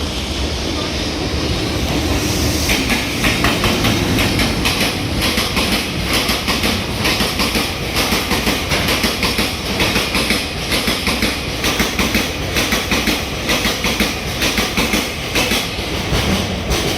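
Freight train of an EH500 electric locomotive and twelve tank wagons passing at speed, its wheels clattering over the rail joints in a steady clickety-clack over a continuous rumble. The clacks start about two seconds in and come in regular clusters as each wagon's wheelsets cross the joints.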